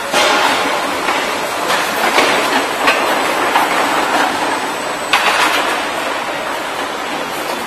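Production-line machinery running with a steady, loud mechanical rush, broken by a few sharp knocks about one, three and five seconds in.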